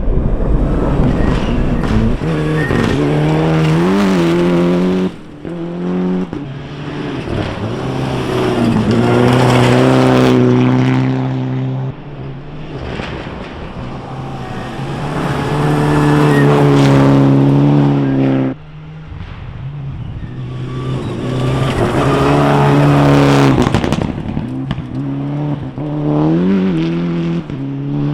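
Rally car engines revving hard at speed, their pitch climbing and falling with gear changes as each car passes. There are several passes in a row, each cut off abruptly.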